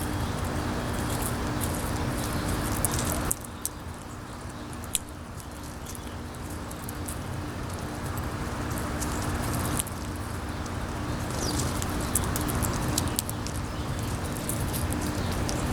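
Wind blowing across the microphone, dropping off suddenly about three seconds in and building back, over a steady low hum. Scattered short, sharp clicks run through it, from birds and squirrels pecking and cracking seeds at a feeder.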